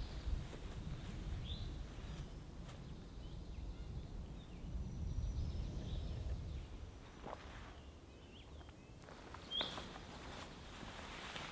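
Outdoor forest ambience: a steady low rumble with a few short, high bird chirps, one about a second and a half in and another near the end.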